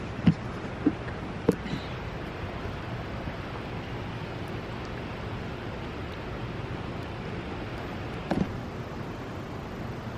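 Steady, even background rush of a large indoor space, with a few short soft knocks in the first couple of seconds and one more near the end.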